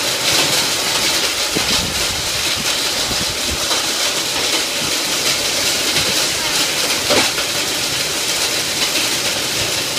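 Heavy storm rain with wind: a loud, steady rushing hiss, with a few brief low thumps.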